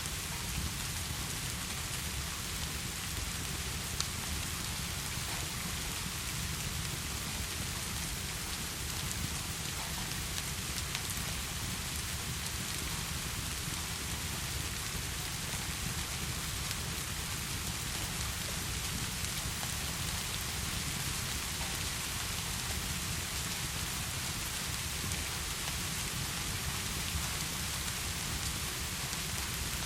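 Heavy, steady rain with a constant low rumble underneath and a few faint clicks scattered through it.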